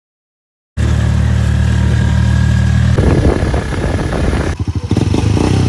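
A small engine running steadily and close up. It starts suddenly just under a second in, after a moment of silence, and its sound changes abruptly twice.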